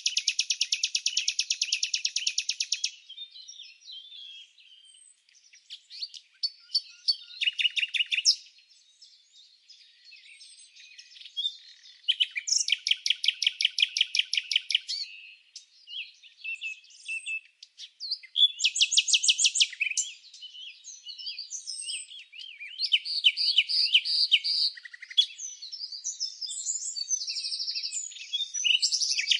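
Songbirds chirping. Several bouts of rapid, high-pitched trills a couple of seconds long alternate with softer scattered chirps and twitters, and the chirping grows busier near the end.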